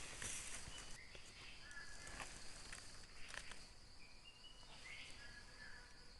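Quiet forest ambience: a steady high insect drone, with several short whistled bird notes and a few faint crackles of dry leaf litter.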